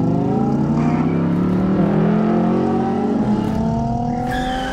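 Racing car engine sound effects: several engines accelerating together, their pitch rising slowly and steadily, with a higher engine tone joining near the end.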